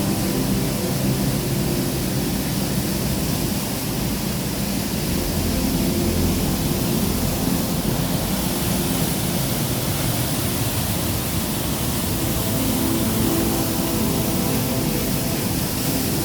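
Waterfall rushing steadily, a loud even hiss of water in heavy flow.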